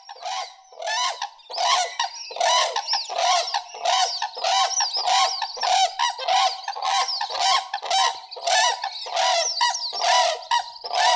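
Brolga calling: a long, unbroken series of loud, harsh calls, about two a second.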